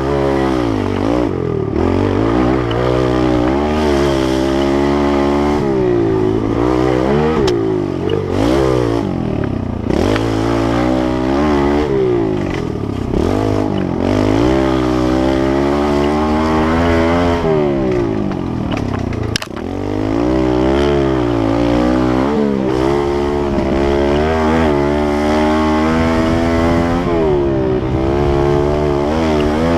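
Kawasaki KLX110L pit bike's small single-cylinder four-stroke engine being ridden, revving up and easing off again and again. There is a short sharp click with a brief dip in the engine sound about two-thirds of the way through.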